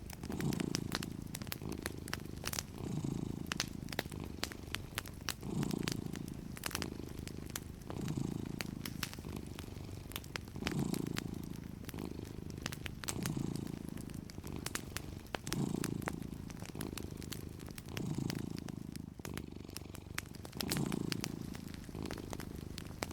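A domestic cat purring steadily, the purr swelling and easing about every two and a half seconds with its breathing. Sharp crackles and pops from a wood fire are scattered throughout.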